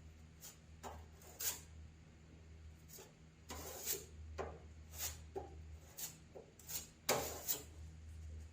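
About a dozen irregular hand scraping and rubbing strokes on the car hood, unevenly spaced, with longer strokes about three and a half and seven seconds in, over a steady low hum.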